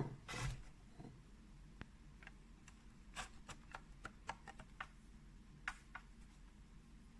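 Faint, irregular light clicks and taps, a few to several a second, over a low steady hum.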